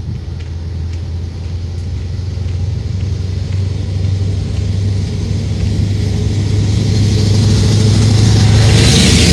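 Low, steady rumble of a motor vehicle, growing louder throughout, with a rising hiss near the end.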